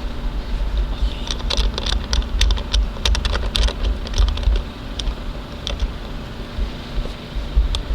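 A flurry of small sharp clicks and taps for a few seconds, a few more later, over a steady low rumble.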